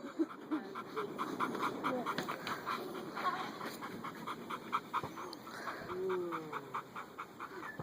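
Dog panting quickly and rhythmically, about four to five breaths a second, with a soft whine near the middle.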